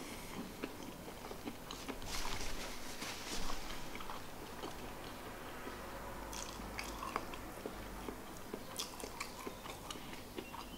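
A person chewing a mouthful of fried chicken wings close to the microphone, with small wet mouth clicks throughout and louder chewing around two and three and a half seconds in.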